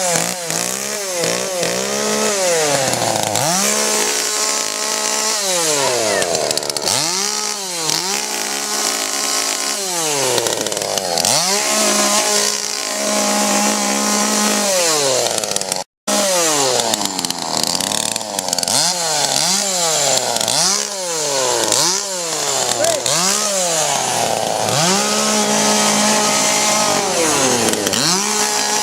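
Chainsaw revving up and down over and over, its pitch rising and falling about once a second, now and then held high at full throttle for a second or two. It cuts out for an instant about sixteen seconds in.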